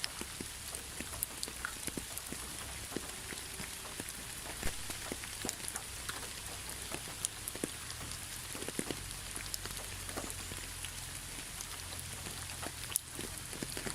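Steady rain falling on a surface, an even hiss with many separate drops pattering close by, over a low rumble.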